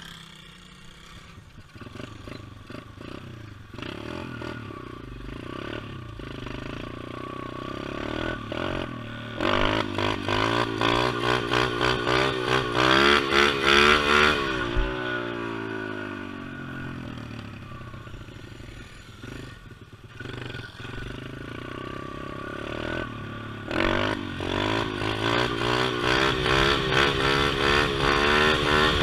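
Pit bike's small single-cylinder engine pulling away and revving up through the gears, loudest about ten seconds in. The pitch then falls away as it backs off and builds again near the end.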